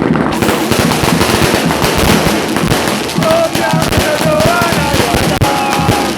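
Fireworks firecrackers going off in a rapid, continuous crackle of bangs. About halfway through, a sung football chant joins in over them.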